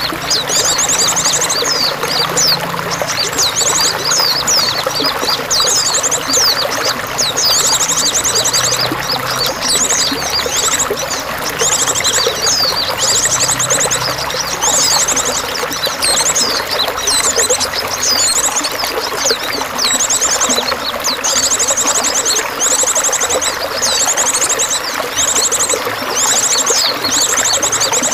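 Steady running, trickling water with small songbirds chirping throughout and giving short, high, rapid trills again and again, about every one to two seconds.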